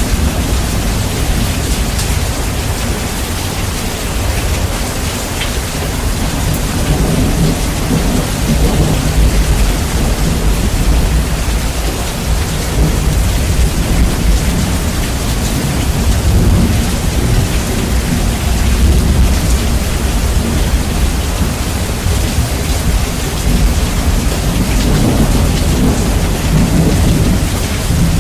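Steady heavy rain with low, rolling thunder rumbling underneath, bass-boosted so the low end is very loud. The rumble swells and fades several times.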